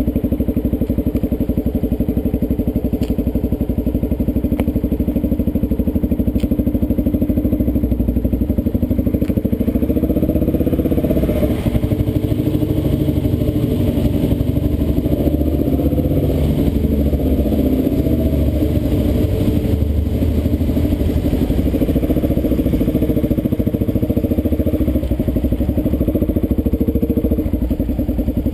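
Dual-sport motorcycle engine running at low riding speed, its note wavering a little with the throttle. From about 11 seconds in, the sound changes and grows brighter for several seconds while the bike passes through a concrete culvert.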